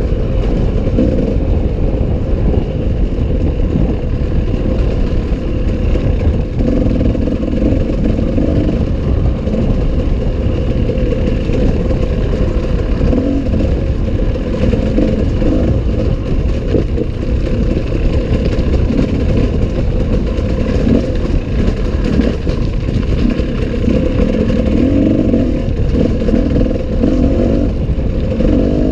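Enduro motorcycle engine running under way, its note rising and falling as the throttle opens and closes.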